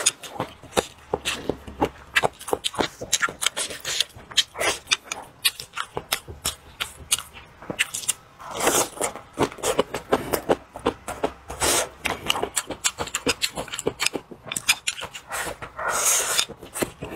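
Close-miked eating: wet chewing and lip-smacking clicks in quick succession as a man eats braised fish and green chili peppers, with a few longer, louder slurps about halfway through and near the end.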